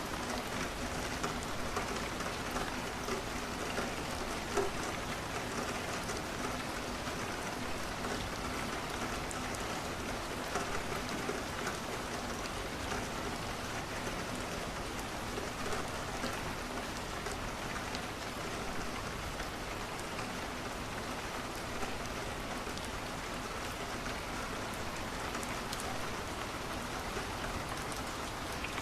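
Steady rain falling, with scattered small ticks and pops through it.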